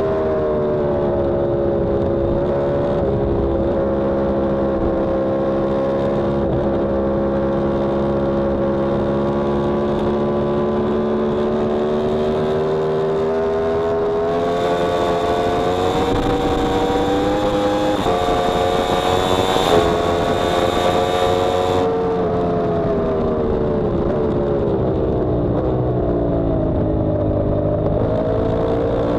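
Yamaha R1M's inline-four engine heard onboard at track speed, its revs slowly sagging, then climbing with a gear change about two-thirds of the way through the rise, dropping off for several seconds and climbing again near the end. A rush of wind noise on the microphone joins the engine through the fast middle stretch.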